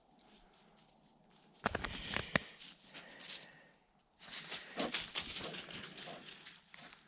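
Footsteps pushing through wet, dense undergrowth: rustling with sharp crackles. It comes in two stretches, the first starting about one and a half seconds in and a second after a short pause.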